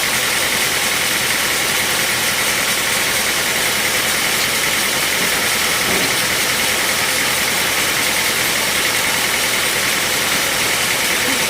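Bandsaw sawmill running steadily, a constant mechanical noise with a strong, even high hum.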